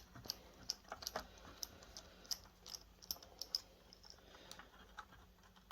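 Small screwdriver turning out a screw from the projector's metal chassis: a run of light, irregular clicks that thins out after about three and a half seconds.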